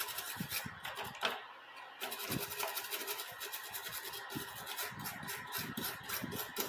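Quick, irregular scratching and scraping strokes on a circuit board as flux residue around freshly resoldered joints is scrubbed off, with a short pause about a second and a half in.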